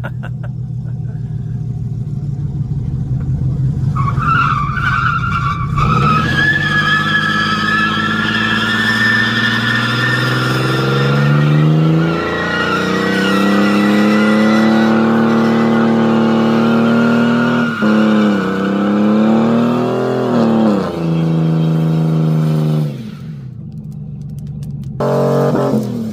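Truck engine revving hard under load in a tug-of-war, its tyres spinning and squealing. The revs climb over the first several seconds, hold high with two brief dips, then drop off near the end.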